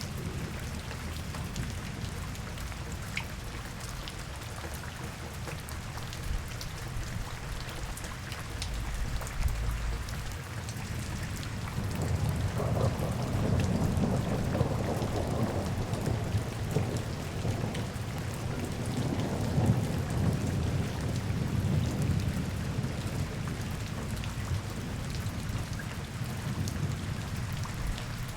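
Steady rain falling and pattering on surfaces. Partway through, a deeper rumble swells up under the rain for about ten seconds, then eases back.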